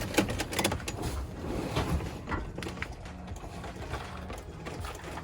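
Nissan 350Z failing to start: irregular clicks and rattles instead of the engine cranking, because the battery is dead.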